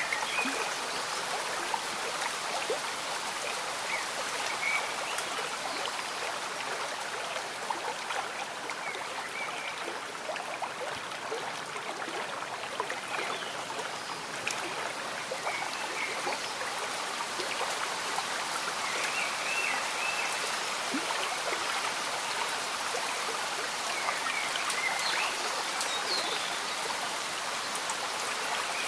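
A gently bubbling stream with steady rain falling, forming an even wash of water noise. Brief high bird chirps come now and then over it.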